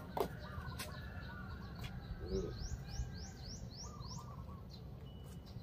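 A bird calling: a quick run of about six high, upward-sweeping notes, roughly three or four a second, near the middle, over a low steady rumble.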